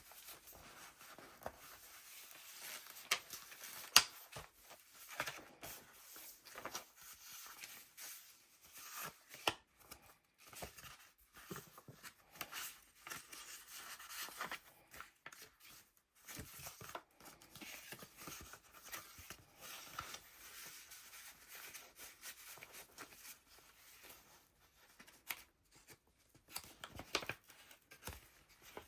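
Pages of a handmade paper junk journal being turned and handled: paper and card rustling and crinkling, with irregular light taps and a sharp click about four seconds in.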